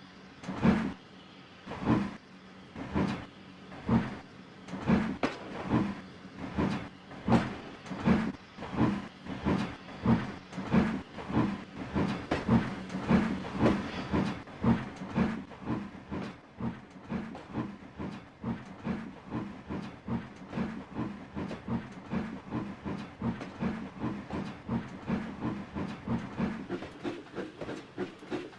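Flying Scotsman, an LNER A3 three-cylinder steam locomotive, starting away: sharp exhaust beats, slow at first, that quicken steadily as the engine gathers speed.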